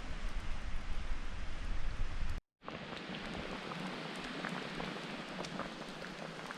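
Campfire crackling and hissing, with many small sharp pops. A cut about two and a half seconds in breaks it with a moment of silence, after which the pops stand out more over less rumble.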